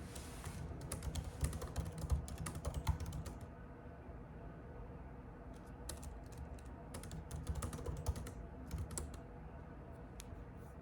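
Typing on a computer keyboard: a quick run of keystroke clicks for the first few seconds, a pause of about two seconds, then more scattered keystrokes.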